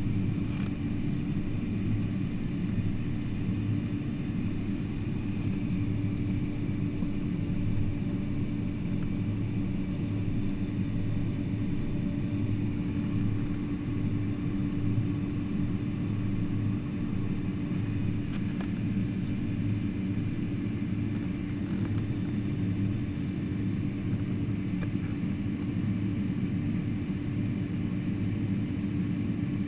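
Steady cabin noise inside a Boeing 747-400 on the ground after landing: a low rumble with a steady hum over it.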